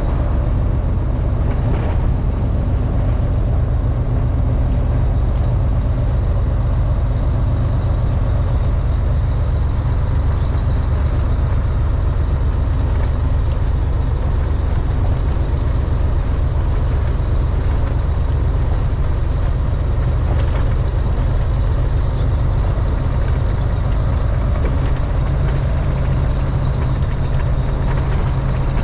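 Semi truck's diesel engine running steadily under way, a continuous low drone, which shifts up a little near the end.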